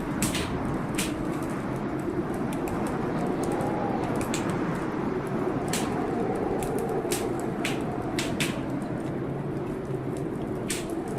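Wood fire crackling, with irregular sharp pops, over a steady rush of storm rain.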